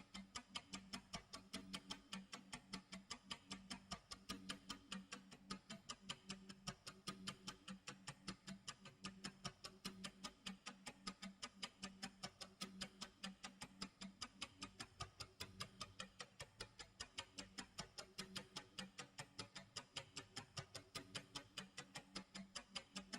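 Clock tick-tock sound effect: a fast, even run of quiet ticks.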